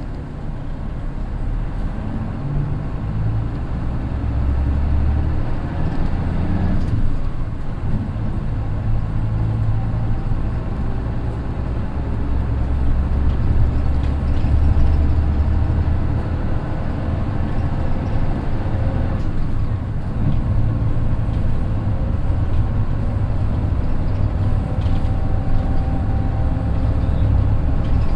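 Mitsubishi Fuso Aero Midi bus with the naturally aspirated 6M61 inline-six diesel, heard from inside while driving. The engine pulls and eases off several times as its revs change. A thin gear whine from the DD5M manual gearbox sounds near the end.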